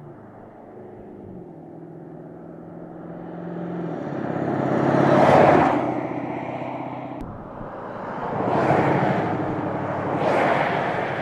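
A car engine running with a steady tone, then cars passing close by in three swells of loudness: one about five seconds in and, after an abrupt change, two more near the end.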